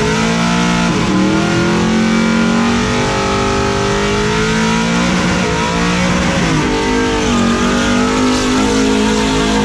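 Full-size pickup trucks running at full throttle down a drag strip. The engine pitch climbs, then dips and climbs again at gear changes, about three times, and the sound stays loud throughout.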